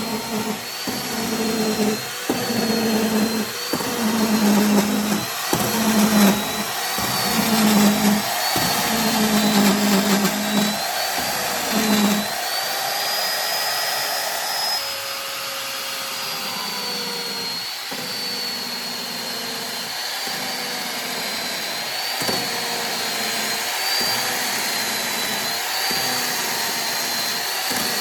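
Electric motor of a woodworking machine, likely the restored mortiser, running with a whine that wavers in pitch. For about the first twelve seconds the hum dips briefly about once a second, as if the machine is repeatedly loaded; after that it runs more evenly.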